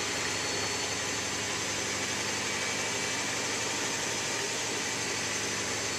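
Miele W3744 washing machine on its final spin, running steadily: a rushing drum noise with a constant motor whine over it.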